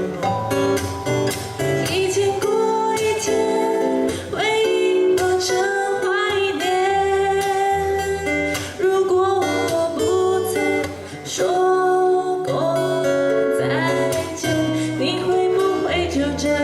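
Two acoustic guitars playing a pop song, strummed and picked chords, with a woman singing over them in places.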